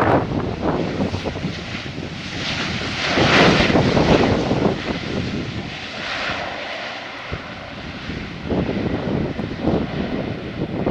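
Airliner's engines roaring as it passes close by, the noise swelling to a peak about three to four seconds in and then slowly fading.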